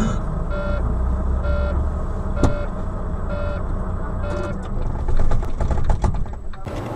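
Vehicle rumble with a short electronic beep repeating about once a second, five times. Near the end comes a rapid clatter of clicks and knocks.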